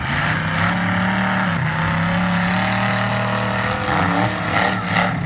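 Demolition derby car engines running hard and loud at a steady, high rev.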